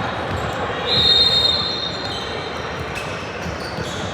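Indoor basketball game noise: the ball bouncing and court sounds, with a loud, high, steady squeal lasting about a second that starts about a second in.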